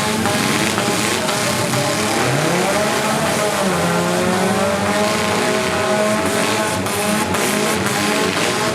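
Several four-cylinder demolition derby cars' engines revving at once, their pitches rising and falling as the cars accelerate and back off, with tyres spinning in mud.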